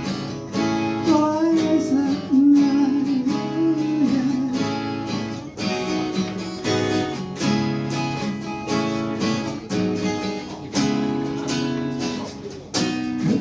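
Acoustic guitar strummed in a steady rhythm as accompaniment to a ballad, with a voice singing over it at times.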